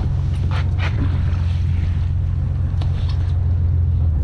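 Charter fishing boat's engine running with a steady low drone, with a few brief knocks and scuffs on deck over it.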